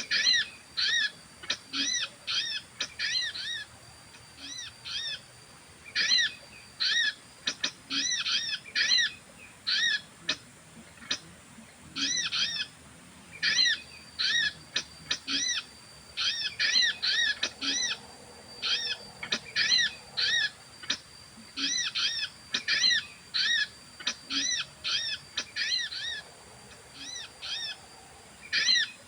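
Bird calls used as a lure in trapping sogon birds: short arched whistled notes repeated in quick runs of two to five, with short pauses between runs. A faint steady high tone sounds behind them at times.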